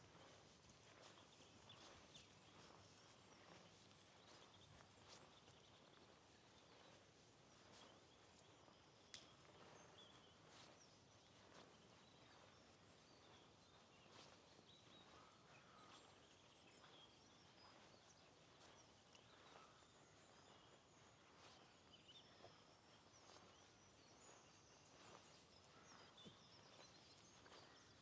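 Faint walking footsteps at a steady pace, about two a second, with small bird chirps in the background and one sharper click about nine seconds in.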